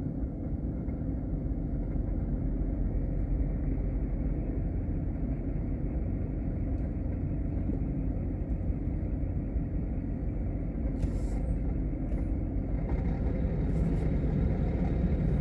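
Steady engine and road rumble of a car being driven, heard from inside the cabin, with a couple of faint ticks about two-thirds of the way through.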